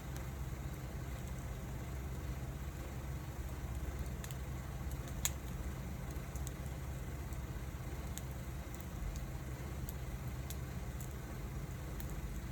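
Wood fire crackling: scattered sharp ticks and pops, one louder pop about five seconds in, over a steady low rumble.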